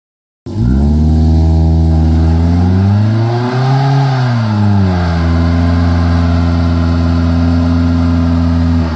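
Car engine running under steady throttle, its pitch swelling up and back down once about four seconds in, then holding steady. It starts after a moment of silence and cuts off abruptly near the end.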